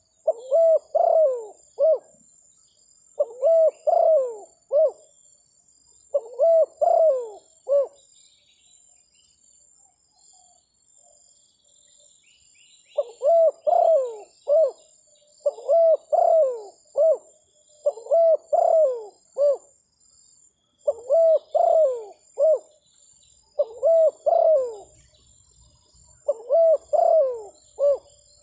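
Spotted dove (terkukur) cooing: nine phrases, each of three or four arched coos, repeated about every two and a half seconds, with a pause of some five seconds after the third phrase. Faint chirps of small birds and a steady high insect-like tone sit underneath.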